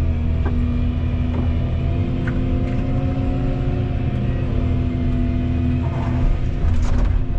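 Volvo EC235EL excavator's diesel engine running steadily, with a few short knocks and a louder clatter of impacts about six to seven seconds in.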